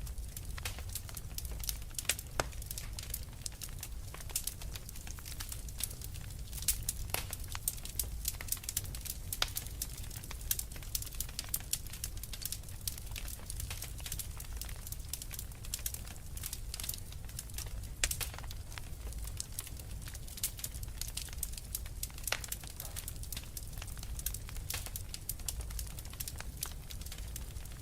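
Wood fire in a fireplace crackling, with frequent irregular sharp pops over a low steady rumble; a few pops stand out louder.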